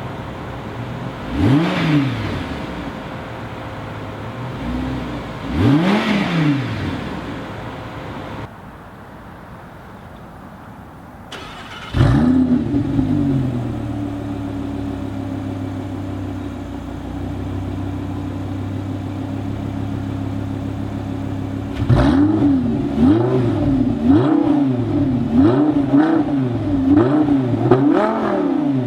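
2014 Audi R8's 5.2-litre V10 through a Tubi Style non-valved exhaust: idling with two throttle blips, then quieter, then started again about twelve seconds in with a flare of revs that settles into a steady idle. From about twenty-two seconds on it is revved in quick blips, roughly one a second.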